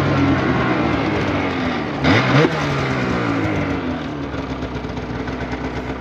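Two-stroke snowmobile engine running, its note falling steadily as the sled slows, with a brief rev about two seconds in.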